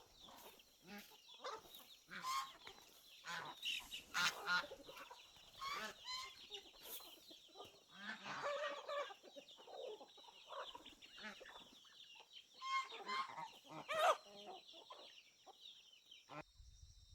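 Chickens clucking repeatedly, a series of short calls. Near the end the sound cuts off abruptly, giving way to a low rumble.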